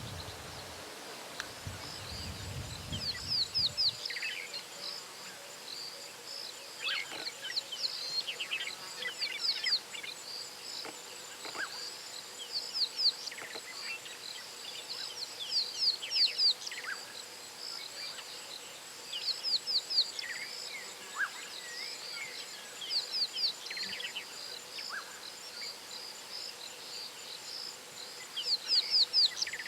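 Bush ambience: insects trill steadily, and a bird repeats a short phrase of three or four quick high notes every few seconds, with other birds calling now and then. A low rumble stops about four seconds in.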